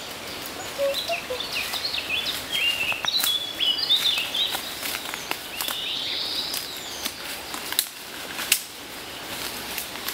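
Small birds chirping in quick, jumpy calls for several seconds, then two sharp clicks near the end.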